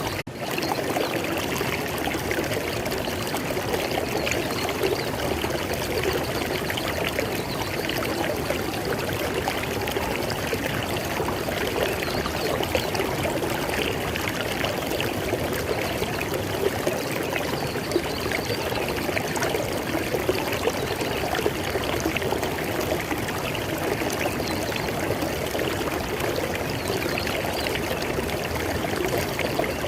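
River water flowing in a steady, unbroken rush, with a momentary drop in level right at the start.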